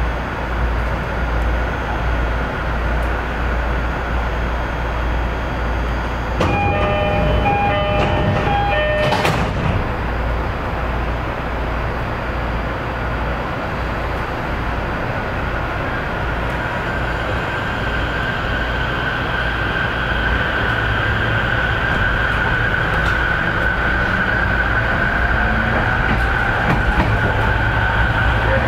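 Electric train running on the Narita Line, heard from inside the carriage: a steady rumble of wheels on rail. About six seconds in, a short run of repeated high ringing tones lasts some three seconds. In the second half a steady high whine comes in and grows stronger toward the end.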